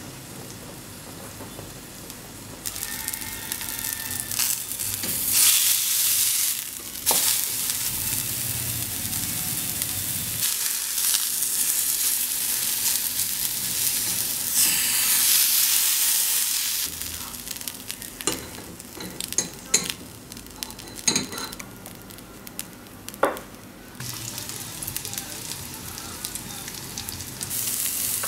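Ground pork patty sizzling as it sears in a small nonstick frying pan. The sizzling grows much louder a few seconds in, and a wooden spatula turning the patty adds a few sharp clicks and scrapes against the pan.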